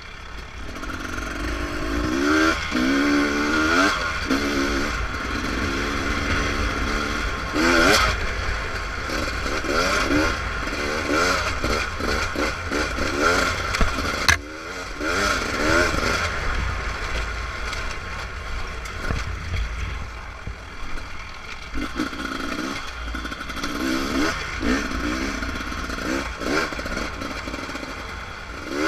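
Beta RR300 single-cylinder two-stroke dirt bike engine revving up and down again and again as the throttle is worked, with chassis rattle and clatter. A sharp knock about halfway through.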